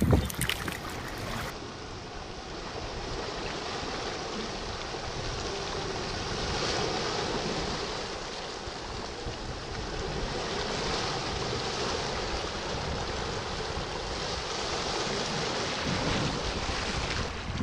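Steady wash of sea water with wind noise on the microphone, swelling and easing gently every few seconds.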